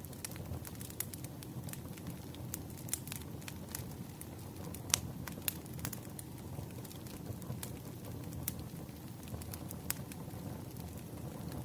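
Wood fire crackling, with a steady low rumble under irregular sharp pops and snaps; the loudest pop comes about five seconds in.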